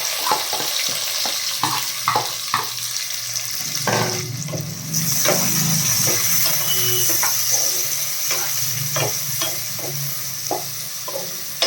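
Chopped onions frying in hot oil in a kadai, sizzling steadily, with a spatula clicking and scraping against the pan as they are stirred. The sizzle grows brighter about halfway through.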